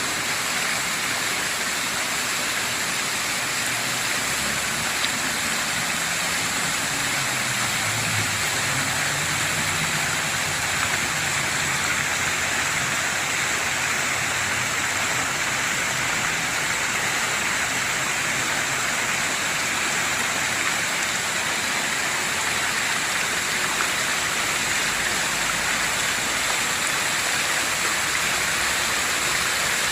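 Fountain water splashing steadily into its basin, an even, unbroken rush.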